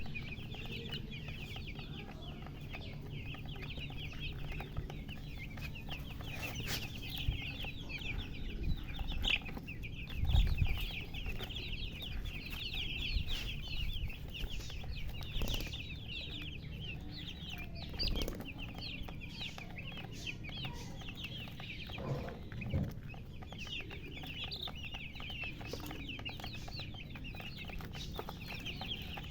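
A brood of baby chicks peeping continuously, many high-pitched short chirps overlapping, with a few lower hen-like clucks now and then. A low thump stands out about ten seconds in.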